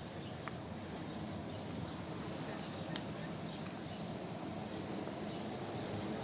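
Steady outdoor ambience with a constant high insect chirring over a broad even background noise, and one sharp click about three seconds in.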